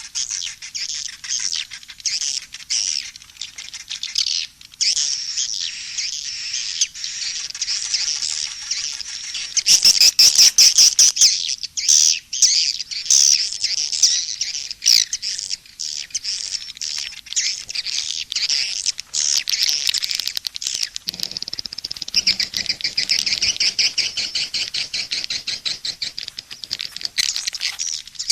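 A dense chorus of swiftlet calls: rapid high chirps and twitters overlapping without pause, a recorded swiftlet calling-sound mix of the kind played to lure swiftlets into a bird house. The chirping grows louder and denser for several seconds about a third of the way in.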